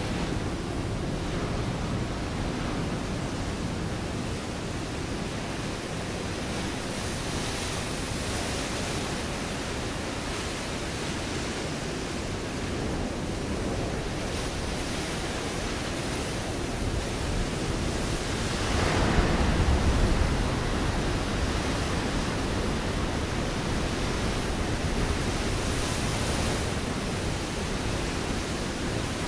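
Ocean waves washing onto a rocky shore in a steady rushing surf, with one bigger wave breaking about two-thirds of the way through, the loudest moment.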